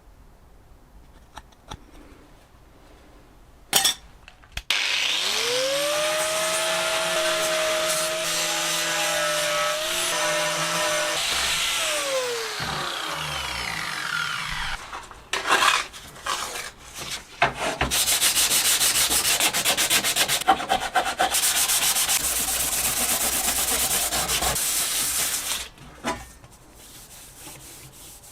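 An electric power tool spins up to speed, runs steadily while working a part with loud abrasive noise, then winds down. After a few knocks comes a long stretch of steady abrasive scrubbing or sanding.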